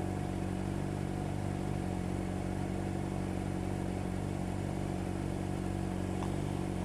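Triumph Tiger Explorer motorcycle's three-cylinder engine running steadily, an even hum with no change in revs.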